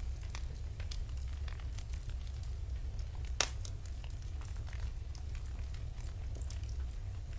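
Wood fire burning in a fireplace: a steady low rumble of the flames with scattered small crackles, and one louder pop about three and a half seconds in.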